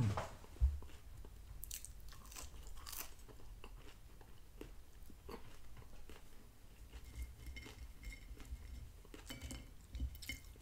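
Close-up chewing of McDonald's French fries: short, irregular mouth crackles and chewing sounds, with one dull low knock just after the start.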